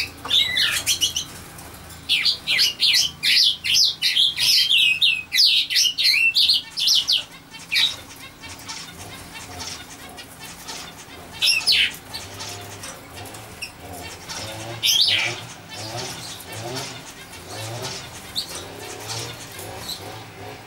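Small birds chirping: a quick run of high chirps over the first seven seconds or so, then single chirps every few seconds.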